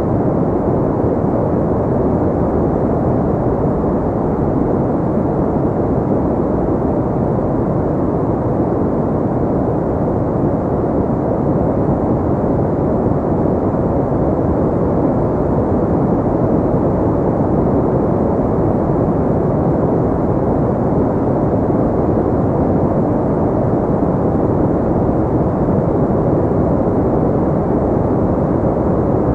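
Steady synthetic pink noise: an unbroken, deep, muffled hiss with most of its weight in the low and middle range, never changing.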